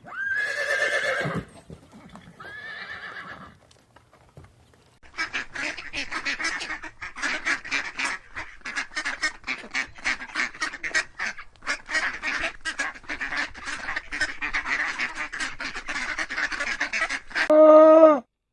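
A horse whinnies twice. Then a flock of waterfowl keeps up a dense, rapid chatter of short honking calls for about twelve seconds. Near the end one loud, drawn-out animal call cuts in.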